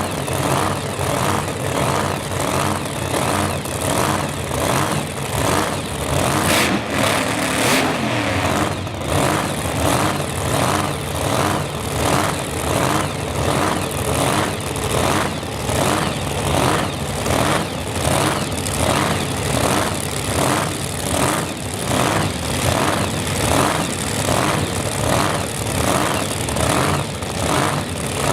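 Supercharged V-8 of a drag coupe idling with an even, lumpy lope, about two surges a second. A brief rush of hissy noise comes about seven seconds in.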